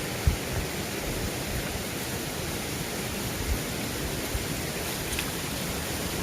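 Mountain stream rushing steadily, with a few short low thumps.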